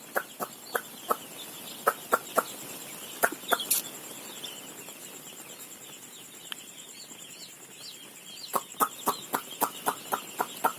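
A crowd of young chicks peeping, many short high chirps overlapping. Sharp clicks or taps come in quick runs through the first few seconds and again near the end.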